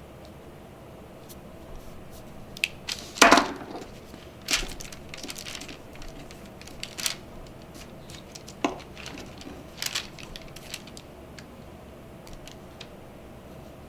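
Construction paper being handled and glued down: scattered rustles and light taps and clicks, the loudest a tap about three seconds in.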